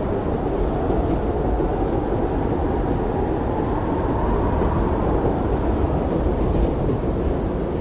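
Blizzard wind blowing steadily: a deep, even rush with a slow swell about halfway through.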